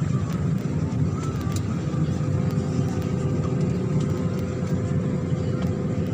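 Steady low rumble of a parked airliner's cabin air supply during boarding. A steady whine joins about two seconds in, with scattered light clicks.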